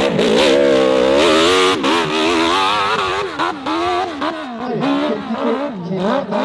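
Racing motorcycle engine revving hard, its pitch rising and falling again and again as the throttle is opened and shut.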